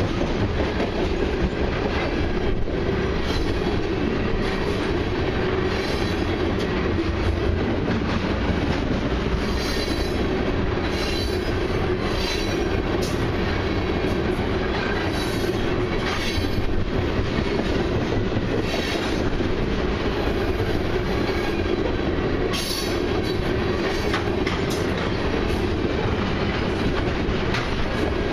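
Loaded ethanol tank cars of a long freight train rolling past: a steady rumble of steel wheels on the rails, with short, sharp, high-pitched sounds from the wheels every second or two.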